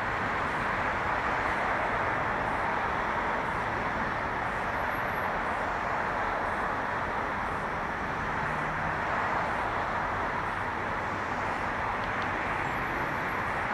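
Steady hiss of distant road traffic, even in level, with no engine note standing out.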